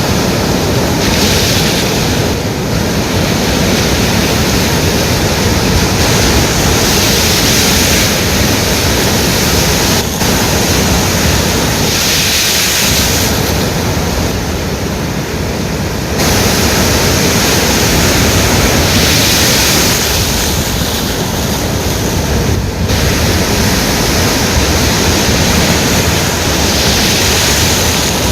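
Ocean waves breaking and washing on the shore, a continuous loud surf hiss over a deep rumble, with a fresh surge of wash every several seconds.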